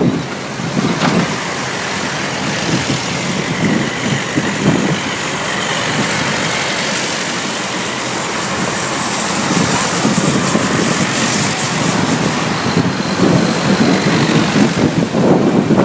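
Tractor engines running as tractors pass by in procession, the sound swelling about two-thirds of the way through and again near the end.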